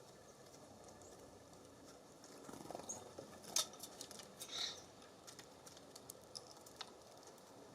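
Small songbirds at a feeder: scattered sharp taps and clicks of beaks and feet on the wooden feeding station, with a few short high chirps, the most noticeable a little over four seconds in.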